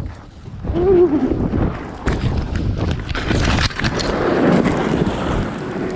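Wind buffeting the microphone, then scraping and a run of sharp knocks as a paraglider pilot is dragged across the ground by his wing in strong wind, with a short wavering vocal groan about a second in.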